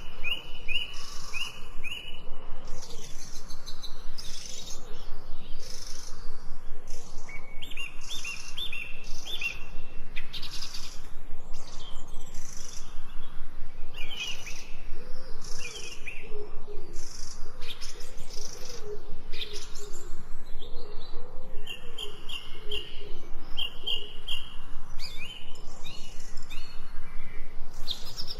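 Birds singing, several at once: repeated runs of quick high chirps, brief raspy higher calls, and a softer, lower warbling call through the middle.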